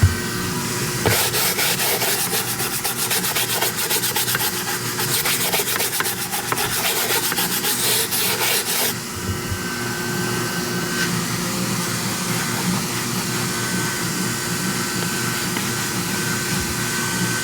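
Rapid back-and-forth scrubbing on a car's surface for about eight seconds, stopping near the middle, over a steady background noise.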